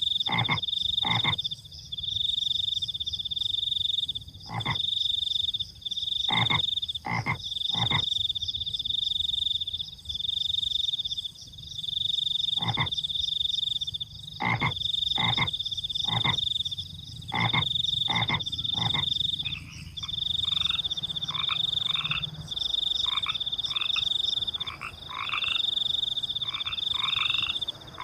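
Frogs croaking in short, sharp single calls over crickets trilling steadily in high-pitched bursts of a second or two. About two-thirds of the way through, a faster series of short, falling frog calls, several a second, joins in.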